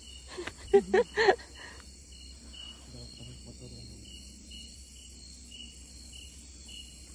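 Insects chirping in a steady chorus: a high drone with a pulsing chirp about twice a second. A brief human voice is heard in the first second or two.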